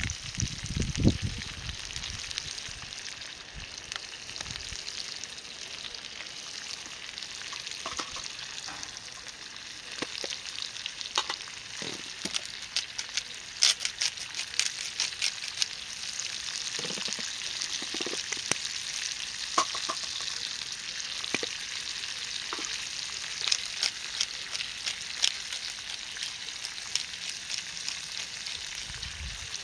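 Ajillo sizzling: olive oil frying mushrooms and shrimp in a small pan over charcoal, a steady hiss with frequent small pops and spits. A couple of low knocks at the very start.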